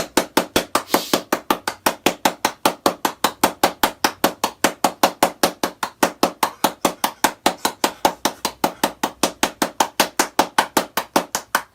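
Rapid, evenly spaced knocking, about five sharp knocks a second, kept up steadily.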